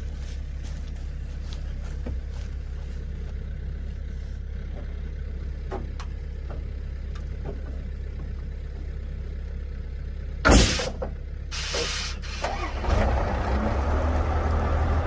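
Old GMC logging truck's engine idling steadily, then two short loud bursts of noise about ten and eleven seconds in, after which the engine speeds up and runs louder near the end.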